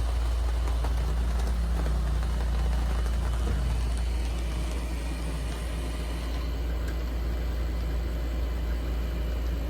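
Steady low engine-like drone with a constant hiss over it, unchanging throughout.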